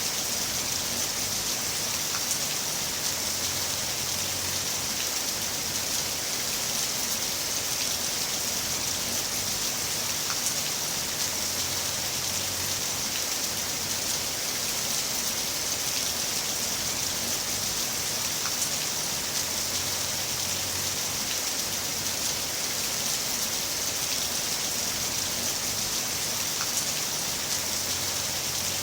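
Heavy rain falling steadily, a dense even hiss with scattered drop ticks and a faint low rumble that comes and goes every several seconds.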